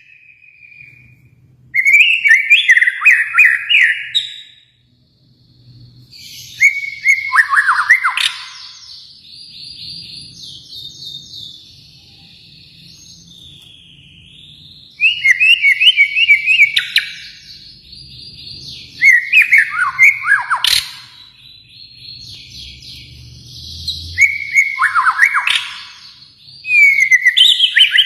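White-rumped shama (murai batu) of the Kalimantan type singing: loud bursts of quick whistled notes falling in pitch, every few seconds, with softer high warbling in between. One sharp click about three quarters of the way through.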